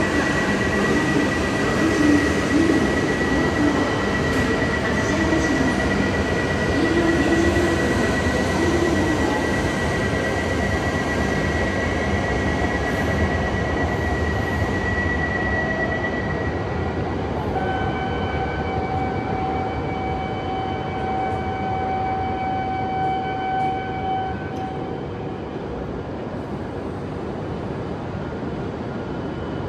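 E7 series Shinkansen train at the platform: a steady rumble with a thin, high steady whine that stops about halfway through. A few seconds later a set of lower steady tones sounds for several seconds. The whole sound slowly grows quieter.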